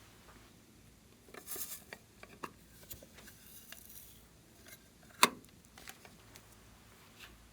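Slime being handled and mixed by hand: scattered small crackles and clicks, a short hissing rustle early on, and one sharp click or pop about five seconds in.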